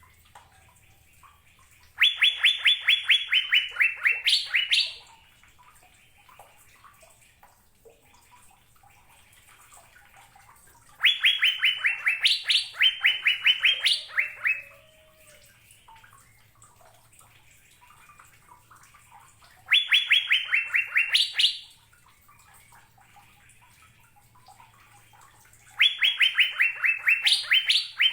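Cucak biru (Asian fairy-bluebird) singing: four bouts, each a fast run of about a dozen clear whistled notes that step slightly down in pitch and end in quick rising notes, with pauses of several seconds between bouts.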